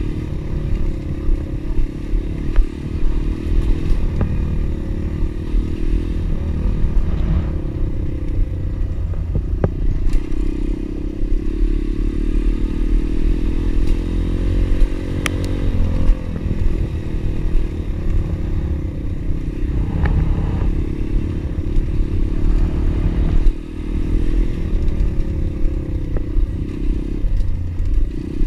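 Pit bike engine running under way, its pitch rising and falling with the throttle, with scattered knocks and clatter. The engine note drops away briefly about three quarters of the way through.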